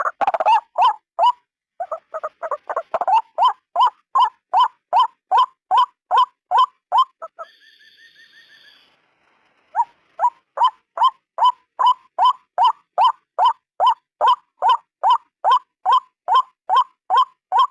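White-breasted waterhen (ruak-ruak) calling: a steady series of short, loud, croaking notes at about two and a half per second. The series pauses briefly near the start, and again near the middle, where a faint, higher-pitched pulsed trill is heard before the calls resume.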